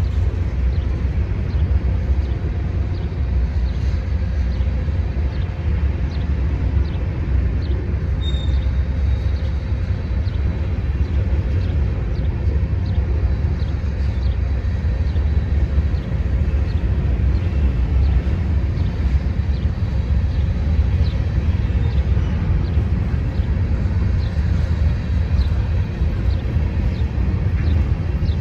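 A train rolling past close by: a steady low rumble with faint wheel clicks on the rails through it.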